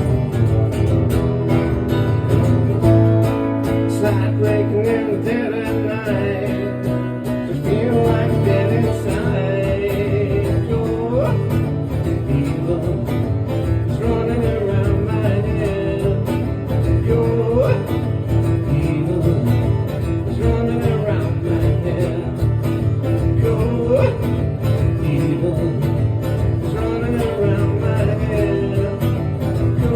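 Live acoustic country-style music: a strummed acoustic guitar keeps a steady rhythm under a melodic lead line that slides up into notes now and then.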